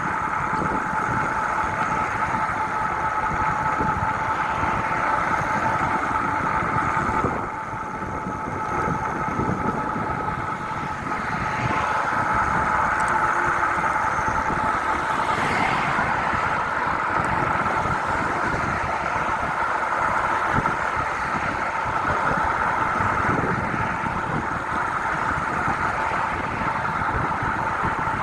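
Steady riding noise from a bike on the move, a continuous hum with two steady whining tones, dropping in level for a few seconds about seven seconds in.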